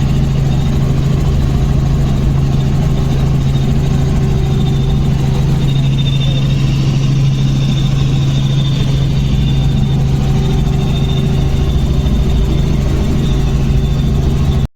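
Helicopter engine and rotors heard from inside the cabin in flight: a loud, steady drone with a strong low hum and a thin high whine.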